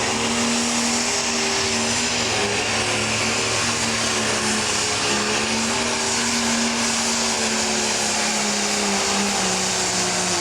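Pro stock pulling tractor's turbocharged diesel engine at full throttle under load during a pull, holding a steady high pitch that dips slightly a few times, over a loud hiss.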